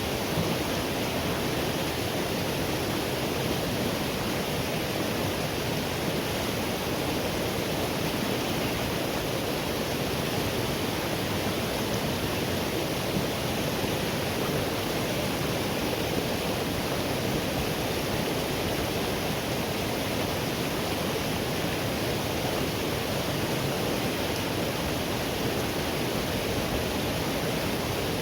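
Forest river water rushing and splashing over rocks, a steady full rush with no breaks.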